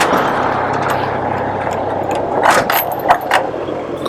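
A motor vehicle's engine running with surrounding road noise: a steady low hum under an even rush. A few sharp clicks and jingles come between about two and a half and three and a half seconds in.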